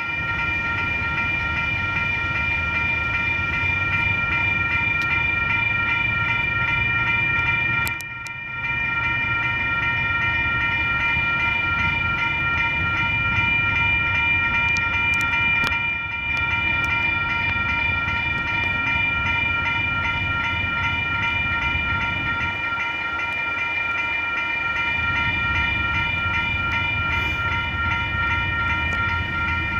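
Freight train approaching, a steady low rumble under continuous high-pitched ringing tones. A locomotive horn starts right at the end.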